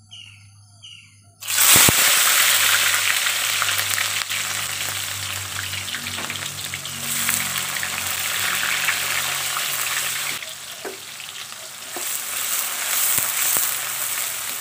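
Coarsely pounded onion, ginger and garlic dropped into hot oil in a steel wok about a second and a half in: a sudden loud sizzle that keeps going as they fry. Near the end they are stirred with a wooden spatula.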